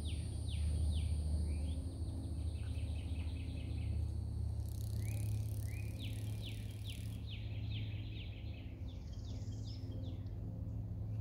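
Backyard birdsong: a songbird repeating down-slurred whistled notes in several bouts, over a steady high insect drone that stops about seven seconds in and a low steady hum.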